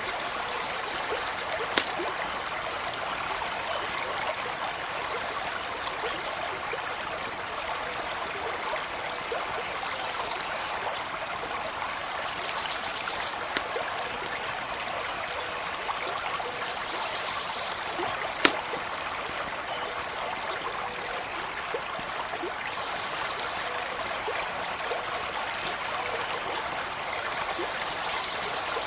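A stream trickling and gurgling steadily, with a few sharp pops of a campfire, the loudest about eighteen seconds in.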